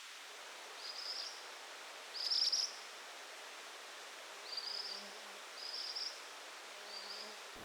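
A bird calling: five short, high chirps about a second apart, the second the loudest, over a faint steady hiss of outdoor background.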